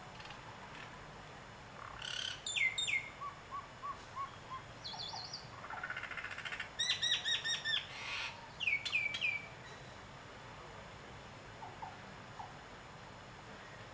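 Birds calling in short bursts over a faint steady background: quick downward-slurred whistles, a run of four short low notes and a rapid series of about five clipped notes, falling quiet again after about nine and a half seconds.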